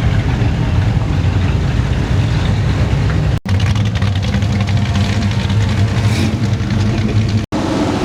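Car engine running, a steady low engine sound. It breaks off abruptly twice, about three and a half and seven and a half seconds in.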